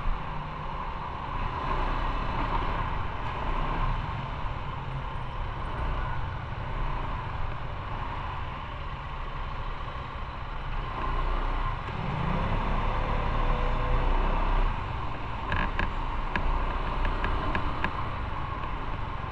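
Motorcycle riding in traffic: the engine runs under a steady rush of wind noise and rises in pitch about twelve seconds in as it speeds up. A few sharp clicks come near the end.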